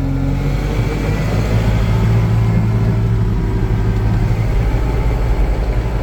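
Vehicle engine running loudly; its note changes about half a second in, then holds steady.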